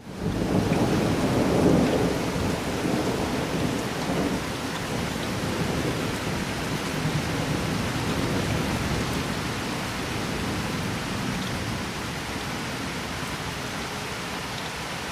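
Steady rainfall with a rolling thunder rumble that swells quickly, peaks about two seconds in and fades away over the next few seconds, leaving the rain alone.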